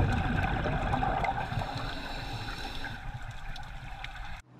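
Moving water sloshing and gurgling, with a steady low rumble and a few faint clicks; it cuts off abruptly near the end.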